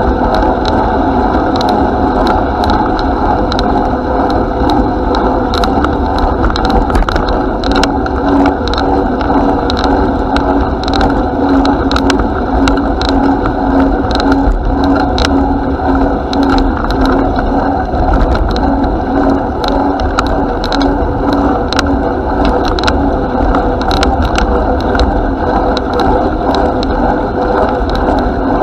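Bicycle being ridden: a steady rumble of tyres and wind on the microphone, with frequent small rattling clicks from the bike. From about eight seconds in to past twenty seconds a pulsing hum runs underneath.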